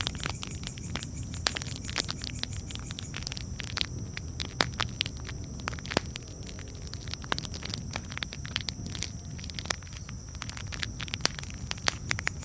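Wood campfire crackling: irregular sharp pops and snaps over a steady low rumble of the flames.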